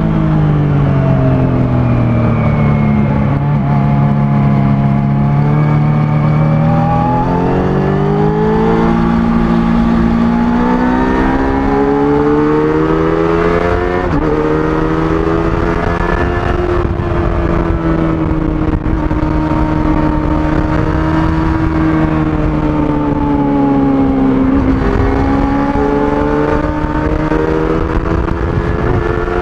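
Kawasaki ZX-25R's 250 cc inline-four engine through its stock exhaust while being ridden. The engine note falls and rises repeatedly with throttle and speed, with a brief change near the middle, over a low rumble.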